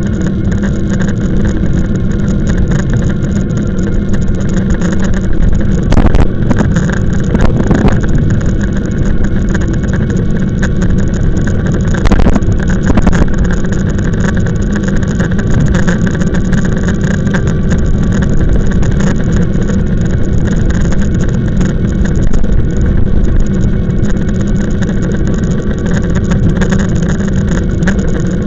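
Loud, steady wind and road rumble from riding an e-bike, with a few steady droning tones. A few knocks come about 6, 7 and 12 seconds in.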